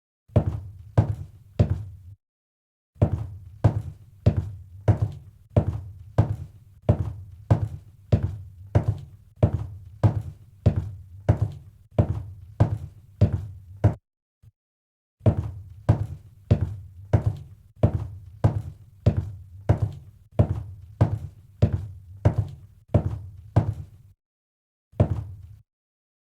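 A steady run of low thumps or knocks, about two a second, each with a short dull tail, stopping briefly a couple of times and starting again.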